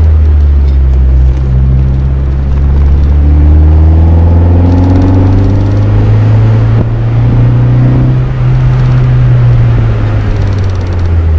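Mazda MX-5 NB's 1.8-litre four-cylinder running through an M2 Motorsport aftermarket exhaust, a steady low exhaust drone. Its pitch climbs a little between about three and five seconds in, then eases back.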